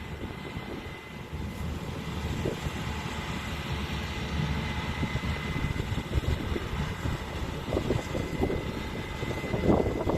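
Corn-harvest machinery running in the field: a steady engine drone with a thin, high, even whine over it. There is a brief louder noisy patch near the end.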